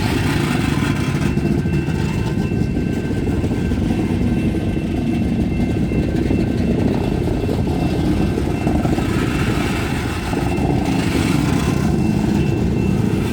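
Freight train running past: a steady low rumble of diesel locomotive engines and rolling cars, with a thin, steady high whine above it.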